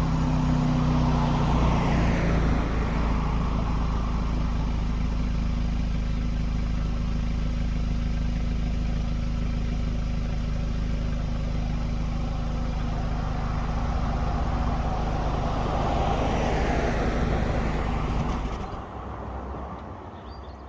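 2015 Audi S3's turbocharged 2.0-litre four-cylinder running at a steady idle, with a deep exhaust drone through its catted downpipe and turbo-muffler delete, then shutting off near the end. A rushing noise swells and fades twice over the idle.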